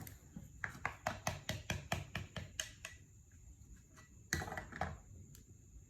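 A rapid run of light clicks or taps, about five a second for two seconds, then a louder brief clatter a little after four seconds in, with a few scattered faint ticks.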